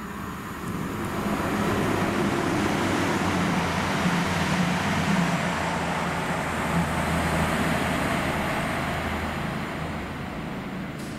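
Diesel passenger train running through the station. A steady low engine drone sits under a rumble of wheels on track that builds over the first two seconds and eases off near the end.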